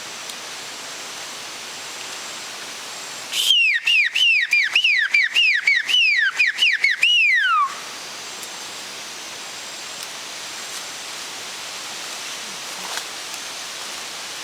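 A quick run of about a dozen clear whistled notes, each sliding down in pitch, with the last one longer and falling further. The run lasts about four seconds, starting a few seconds in, over a steady hiss.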